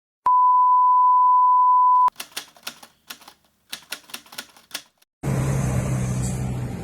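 A steady high beep held for about two seconds, then a burst of rapid typewriter-like key clicks for about three seconds. About five seconds in it cuts to outdoor noise with a low, steady engine hum.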